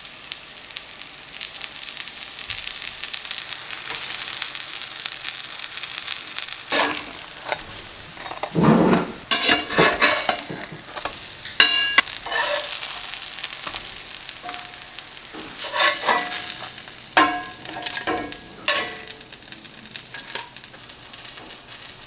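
Cottage cheese pancakes sizzling as they fry in a pan. From about a third of the way in there are repeated clinks and scrapes of a utensil against the pan, one of them ringing.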